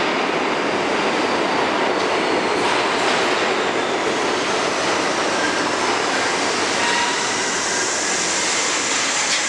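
An R32 subway train runs into the station, its wheels and cars rattling over the track. Thin squealing tones from wheels or brakes join in during the last few seconds.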